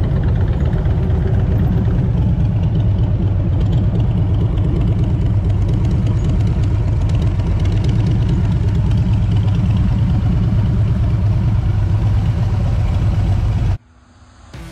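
Harley-Davidson Road King's V-twin engine idling steadily, close to the handlebar camera, with other motorcycles running nearby. The engine sound cuts off abruptly near the end.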